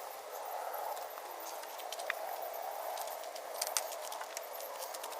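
Wet scrubbing in an engine bay with a large wheel woolie brush: a steady brushing and rubbing noise, with scattered light clicks and taps as the brush and its handle knock against engine parts.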